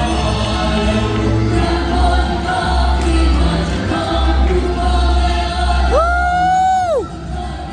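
A group of voices singing a Ukrainian song with accompaniment. About six seconds in, one voice rises into a single long held note that falls away a second later.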